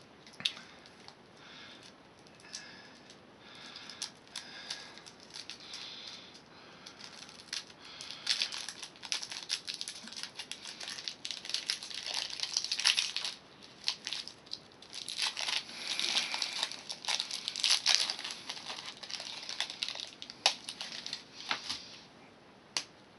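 Hershey's chocolate bar being unwrapped by hand: wrapper crinkling and tearing in irregular bursts, busier in the second half.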